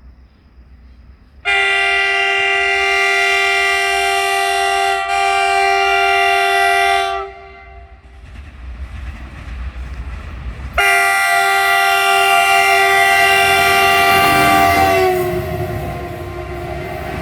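Indian diesel locomotive's air horn sounding two long blasts, the second falling slightly in pitch near its end, followed by the rumble of the train running by.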